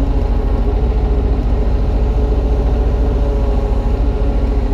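Kubota U35-3 mini excavator's diesel engine running steadily while digging a trench, working through stony ground.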